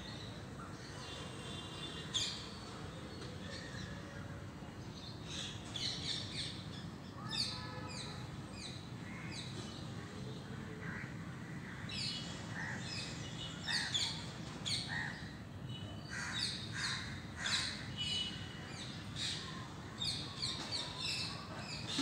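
Birds chirping, with many short high chirps, sparse at first and coming thick and fast over the second half, over a steady low background hum.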